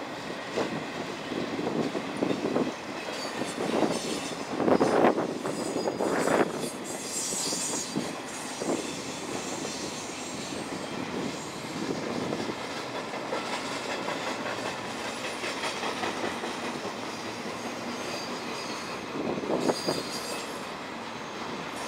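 Florida East Coast Railway intermodal freight cars, well cars loaded with trailers and containers, rolling past, their wheels knocking and clanking over the rail joints. A brief high squeal comes from the wheels twice, about a third of the way in and near the end, as the train slows toward a stop.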